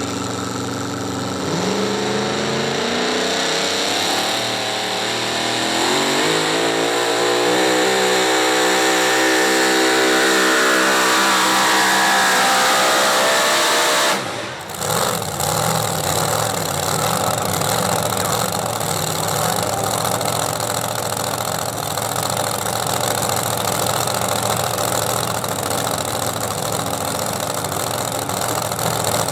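A pulling vehicle's engine under load, its pitch climbing steadily for about ten seconds, then cut off abruptly about halfway through. After that an engine runs steadily.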